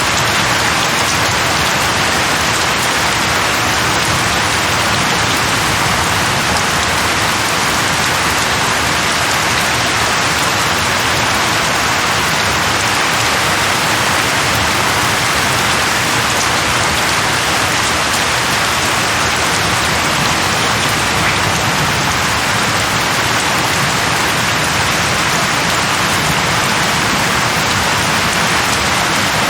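Steady, heavy rain falling on a surface, an even hiss without let-up.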